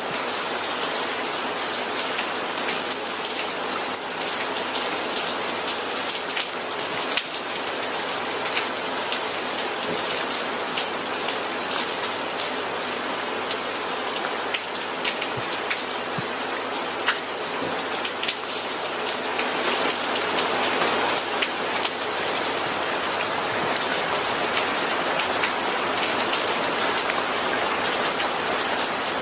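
Steady rain falling on a hard surface, with many individual drops tapping sharply through the continuous patter; it grows slightly heavier about two-thirds of the way through.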